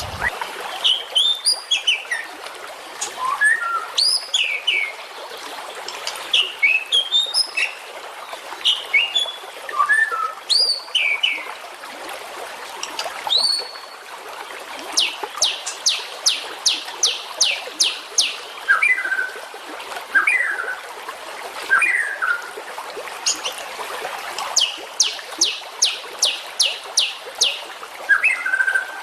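Songbird chirps and short whistled phrases, with two runs of rapid, sharp repeated notes at about three a second, one just past halfway and one near the end. It is a masteran recording of bird song used to train caged songbirds such as the white-rumped shama.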